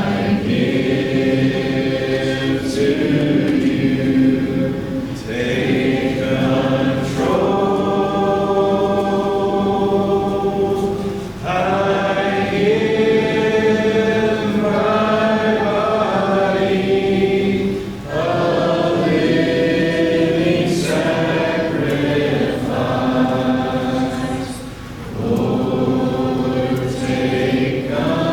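Congregation singing a hymn together a cappella, in sustained phrases with short breaks between them.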